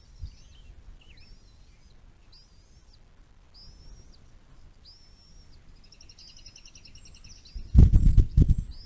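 A bird calling with short, high, arching chirps about once a second, breaking into a rapid trill near the end. Loud low thuds and rumbling then take over for the last second.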